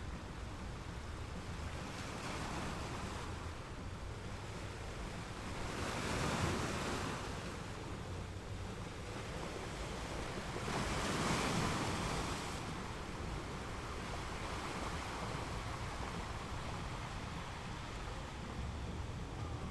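Atlantic surf on a sandy beach: a steady wash of waves, swelling louder twice as waves break, about six seconds in and again around eleven seconds. A low wind rumble on the microphone runs underneath.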